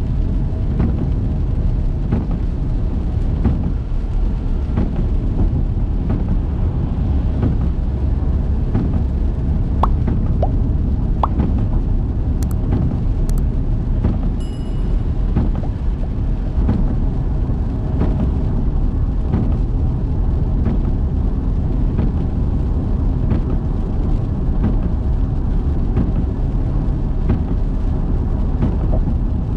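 Car on the move: a steady low rumble of road and engine noise, with a few faint clicks about ten to fourteen seconds in.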